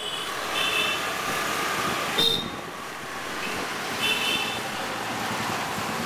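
Busy street traffic heard from the back of a moving motorcycle: a steady rush of engine and road noise, with vehicle horns honking in short blasts several times, the loudest a little over two seconds in.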